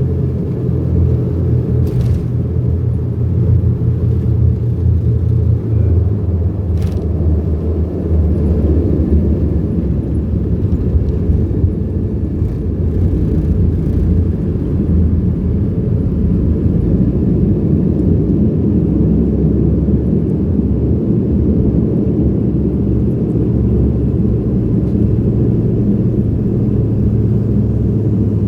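Cabin drone of an Embraer EMB-120 Brasilia's twin turboprop engines and propellers, a steady low rumble that shifts slightly in pitch about six to eight seconds in. Two short clicks come through, about two and seven seconds in.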